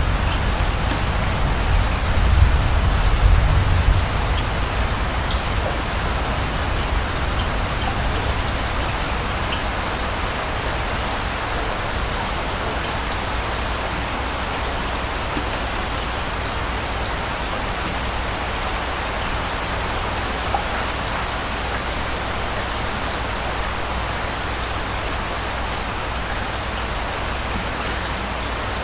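Steady rain falling, a continuous hiss with scattered drop ticks. A low rumble of distant thunder dies away over the first few seconds.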